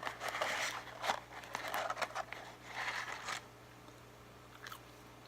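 Paper food packaging rustling and crinkling in several bursts over about three and a half seconds, then quiet.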